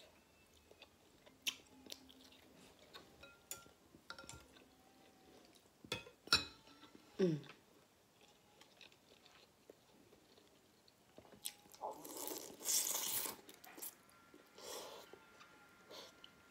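Close-miked eating: scattered chewing and crunching clicks, with a louder, longer noisy stretch from about twelve to fourteen seconds in.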